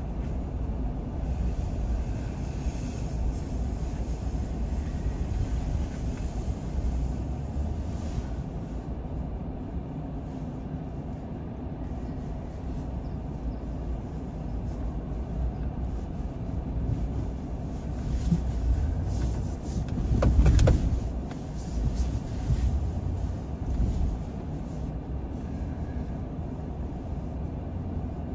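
A car driving along the road: a steady low rumble of tyres and engine, with a louder jolt about two-thirds of the way through.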